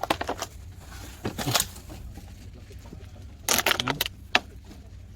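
Plastic litter and debris crackling and crunching as it is picked up and handled, in short bursts: near the start, about a second and a half in, and a cluster about three and a half to four seconds in. A low rumble runs underneath.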